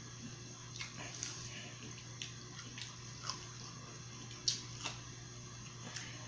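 Close-up eating sounds: wet chewing and lip smacks with scattered sharp clicks, the loudest about four and a half seconds in, over a faint steady hum.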